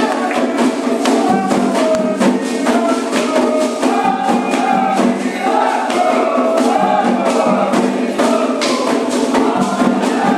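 Candomblé ritual chant: a group of voices singing together over dense, steady percussion struck many times a second.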